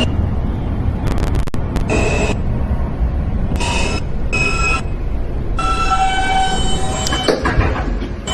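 Subway train stopped at a station, heard from inside the car: a steady low rumble, several short high tones partway through, and clicks about a second in and again near the end.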